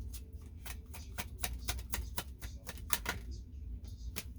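Tarot cards being shuffled or flicked through by hand: a rapid run of sharp clicks, about five a second, for about three seconds, then a single click near the end.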